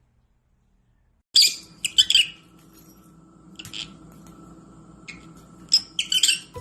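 A small bird chirping in short high-pitched bursts, a few chirps at a time, over a faint steady hum; the chirping starts after about a second and a half of silence.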